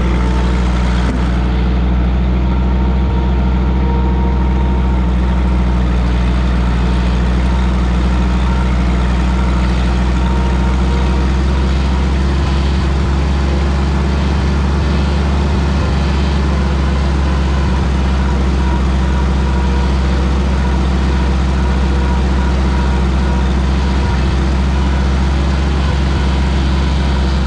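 Minneapolis Moline tractor engine running steadily at an even speed.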